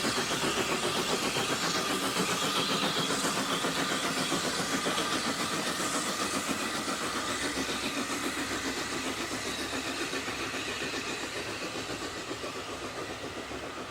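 Steam locomotive working, its exhaust beats coming quickly and evenly over a hiss, slowly fading away.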